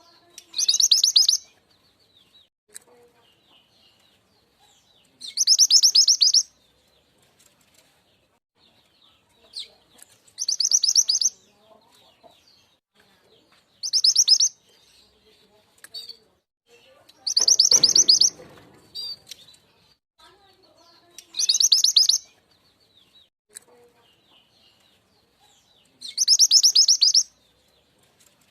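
Mantenan gunung (truntung weru) song used as a lure call: seven high, rapid trilled phrases of about a second each, repeated every four to five seconds, with faint chirps in between.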